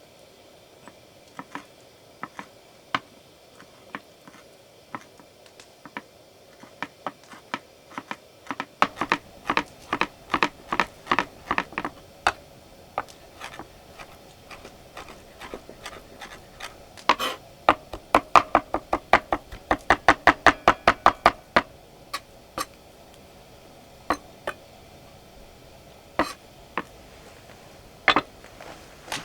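Knife chopping food on a cutting board: scattered single chops, then two quick runs of about four chops a second, one about nine seconds in and a louder one at about seventeen seconds, then a few last chops.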